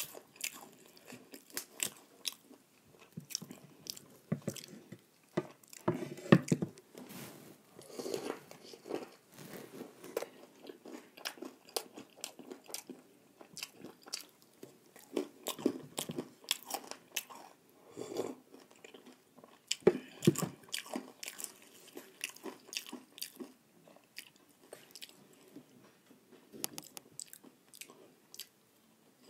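Close-up eating sounds: a person biting and chewing crisp fried snacks, with irregular sharp crunches.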